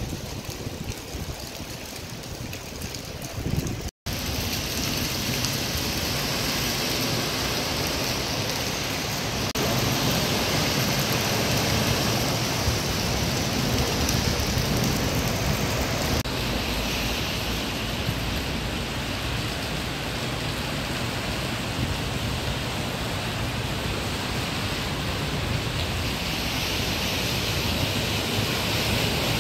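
Steady hiss of heavy rain and running water on a flooded street, cutting out for an instant about four seconds in. Near the end the hiss gets brighter as a vehicle splashes through the floodwater.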